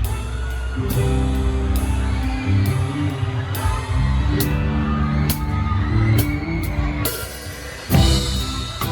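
A live band playing an Isan pop song, with a close drum kit keeping a steady beat under bass, guitar and a singing voice. About 7 s in the band thins out briefly, then the full kit and band come back in loudly about a second later.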